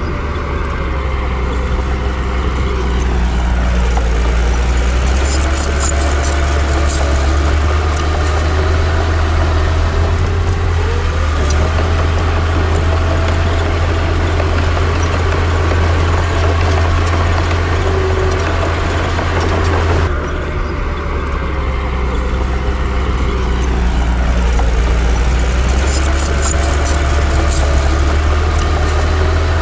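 Heavy bulldozer diesel engine working under load, its steady low drone sinking and rising in pitch as it pulls and eases off, with bursts of metallic clinking. The sound changes abruptly about two-thirds of the way through.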